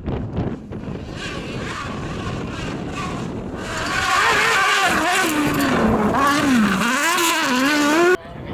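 Rally car engine at racing speed, with wind on the microphone at first. About four seconds in it grows loud, its pitch rising and falling as the throttle is worked, then it cuts off abruptly near the end.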